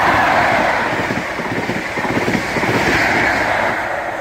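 ScotRail Class 43 HST passing through at high speed: diesel power car engines with the rush and rumble of wheels and air. It swells again about three seconds in as the rear power car goes by.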